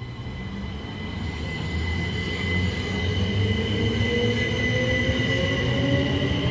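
Southeastern Class 375 electric multiple unit pulling away from the platform at full power. Its traction motor whine rises steadily in pitch over a low rumble, growing louder as it accelerates.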